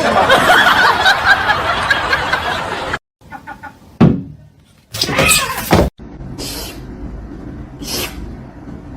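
People laughing and talking across short clips cut one after another, with a sudden loud hit about four seconds in.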